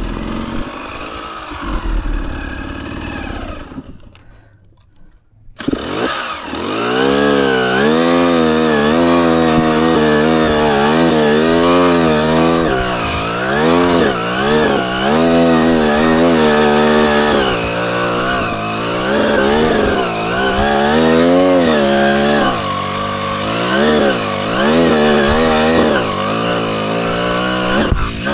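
Dirt bike engine under the rider's throttle, revving up and falling back again and again in quick surges while picking through rough ground. The sound briefly drops away about four seconds in before the engine comes back loud.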